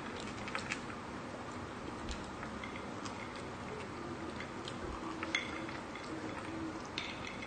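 Mukbang eating sounds: chewing with scattered small mouth clicks and smacks.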